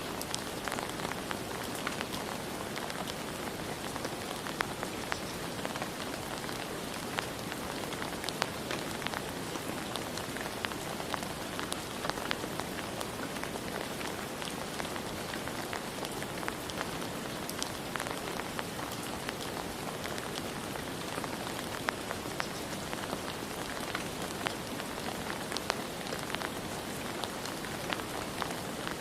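Steady rain falling on a surface, with scattered individual drops ticking throughout.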